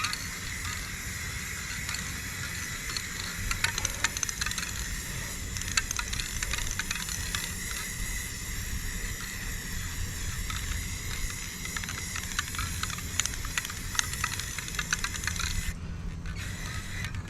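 Aerosol spray paint can spraying in a long steady hiss that cuts off suddenly near the end.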